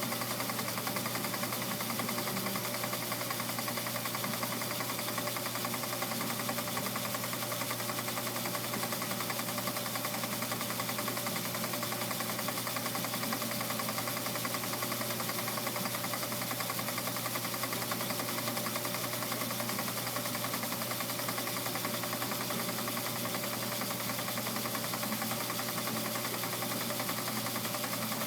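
Homemade Gingery metal lathe running steadily, its motor and belt-and-pulley drive turning the spindle and the automatic carriage feed, with a constant low hum under a whirring mechanical noise.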